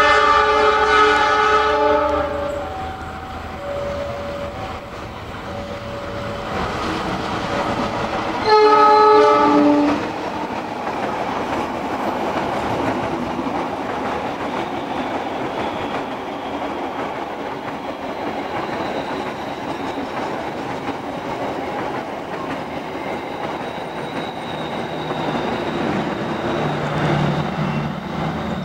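A diesel locomotive sounds a long multi-note horn chord, then a second, louder blast about nine seconds in. After that its passenger carriages roll past with steady wheel-on-rail clatter.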